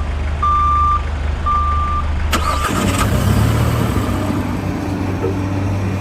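A reversing alarm beeping twice, evenly spaced, over a steady low engine hum. A little over two seconds in the sound changes suddenly to a different engine running with a steady hum.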